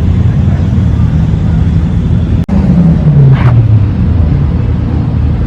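Car engine running with a low, loud note. About halfway through, the pitch falls as the revs come down.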